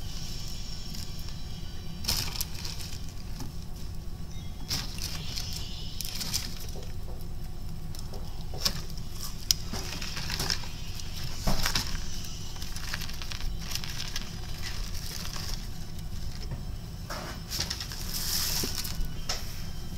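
A person chewing and smacking while eating spicy fried chicken, short irregular clicks and smacks over a steady low hum.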